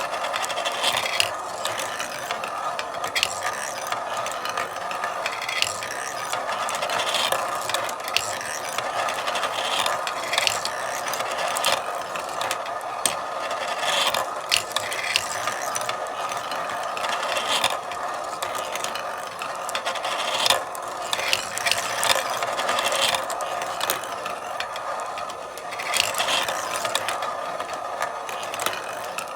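Marbles rolling continuously along a marble run, a steady rattling roll with many irregular sharp clicks as marbles strike and drop along the track.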